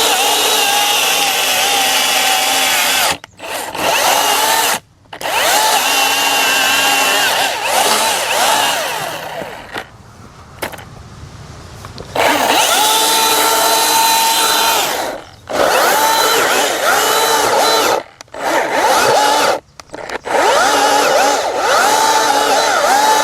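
Chainsaw running and revving, its pitch rising and falling through cuts, broken off abruptly several times.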